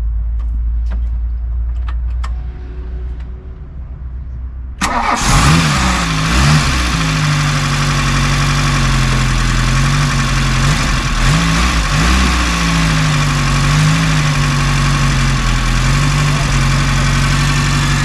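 Volkswagen Golf Mk1's 1.6 carburetted petrol four-cylinder engine starting suddenly about five seconds in, then idling steadily with its speed wavering slightly up and down. A few small clicks come before it starts.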